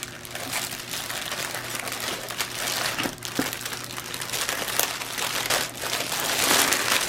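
Plastic packaging crinkling and rustling as it is handled, louder in the second half.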